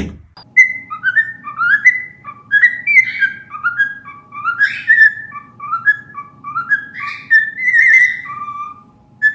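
A parrot whistling a long string of short notes, many sliding up or down in pitch, like a rambling tune.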